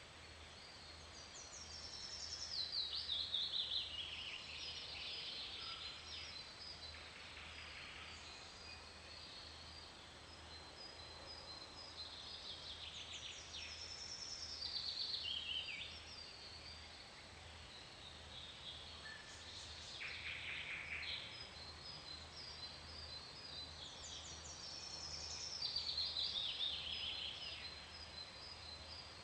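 A songbird singing a rapid trilled phrase that falls steadily in pitch, four times, several seconds apart, with fainter high repeated chirps between the phrases.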